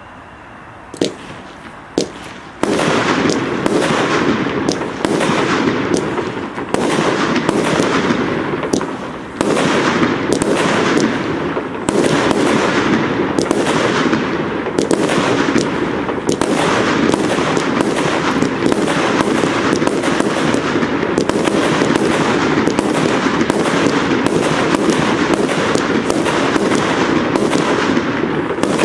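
Evolution Fireworks 'Blue Thunder' firework going off: two sharp pops about a second apart, then from about two and a half seconds in a continuous hiss packed with rapid bangs, two or three a second, that goes on without a break.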